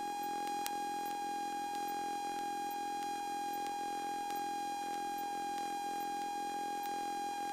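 A steady electronic tone held at one pitch without change, with faint regular ticks about twice a second, the kind of electrical whine heard in a light aircraft's intercom and radio audio feed.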